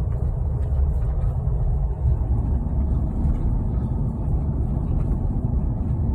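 A vehicle being driven: a steady low rumble of engine and road noise.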